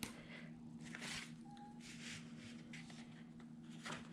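Quiet rustling and scraping of paper and sticker pieces being handled, five or six short strokes, over a steady low hum.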